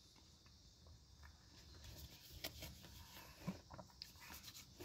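Faint chewing of Nestle Crunch Dibs, small chocolate-coated ice cream bites: scattered soft mouth clicks and light crunches over near silence, with a couple of sharper clicks past the middle. The crunch is slight, the bites not very crunchy.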